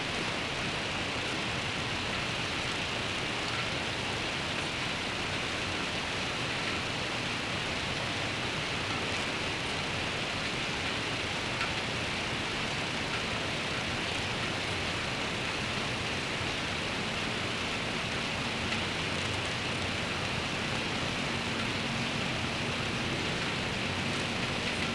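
Steady rain falling, an even hiss with no break. In the last several seconds a faint low hum of a vehicle comes in under the rain.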